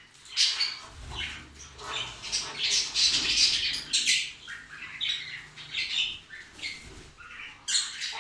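A mixed flock of small pet parrots, budgies, cockatiels and lovebirds, chirping and squawking together in many short, overlapping calls.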